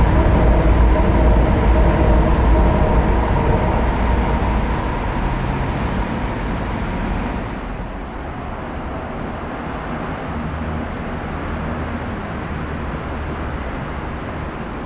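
Echizen Railway electric train running close by, with a steady hum mixed into its running noise. It is loud at first and eases to a quieter, steady level about halfway through.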